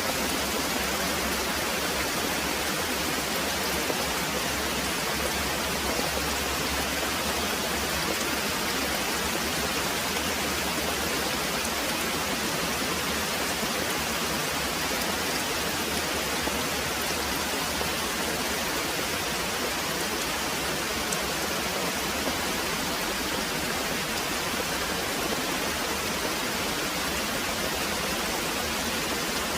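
Very heavy rain pouring steadily, a dense even hiss of rainfall with no break or swell.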